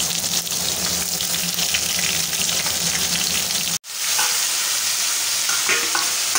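Ash gourd slices sizzling in hot oil in an aluminium kadai, a steady hiss. It cuts out sharply for an instant about four seconds in, then a metal spatula scrapes and stirs the pieces in the pan a few times over the sizzle.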